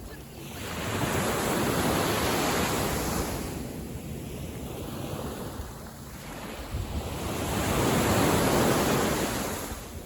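Waves on a calm sea washing onto the beach: two swells of surf a few seconds apart, each building up and then fading away.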